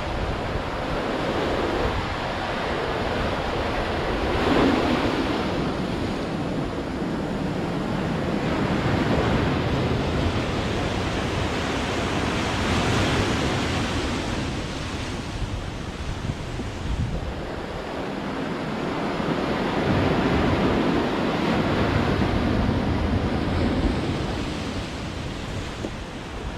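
Sea waves breaking and washing on the shore: a continuous surf that swells and eases every few seconds, with a sharper crash about four to five seconds in.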